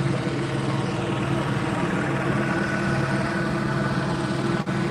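Police helicopter hovering overhead: a steady drone of rotor and engine with a low, even hum.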